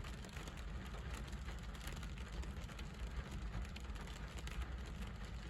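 Steady light rain patter over a constant low rumble, with no distinct events.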